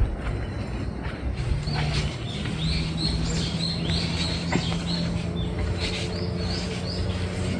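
A bird calling in a quick series of short rising chirps over outdoor background noise, with a steady low hum coming in about a second and a half in.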